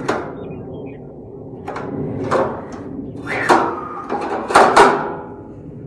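A run of irregular clanks and knocks, the loudest about halfway through and again near the end: metal parts of a gas grill and its rotisserie being handled and set in place.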